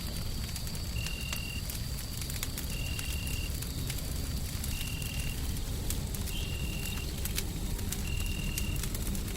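Wood fire crackling with scattered sharp pops over a steady deep rumbling white noise. A short, steady high-pitched tone sounds five times, about every one and a half to two seconds.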